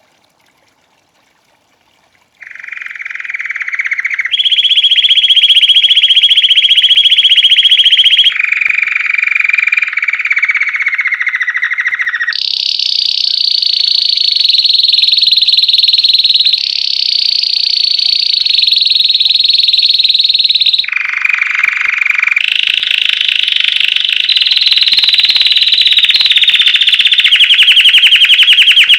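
White Belgian canary singing a run of long, rapid trills, each held at one pitch for a few seconds before switching to a higher or lower trill. The song starts about two seconds in and is loud.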